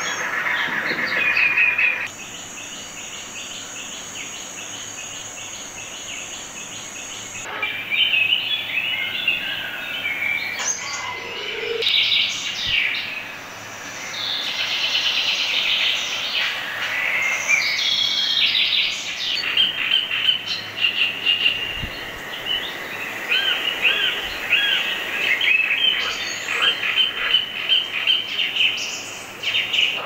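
Assorted birds calling and chirping on a nature-documentary soundtrack, played through a TV speaker. The calls change abruptly at each scene cut, and one stretch after the first cut carries a steady high whine for several seconds.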